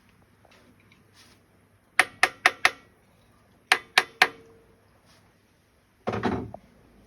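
Sharp metallic clinks: four in quick succession, then three more, as engine parts are worked during a check of connecting-rod side clearance on the crankshaft. A short rustling noise follows near the end.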